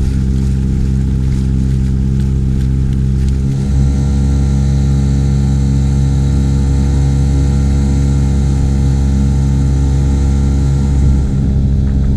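Small 3.3 hp Mariner two-stroke outboard motor running steadily, pushing the inflatable boat along; its sound grows fuller about three and a half seconds in.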